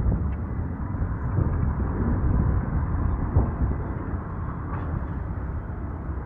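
Strong wind buffeting the microphone: a low, gusting rumble that rises and falls.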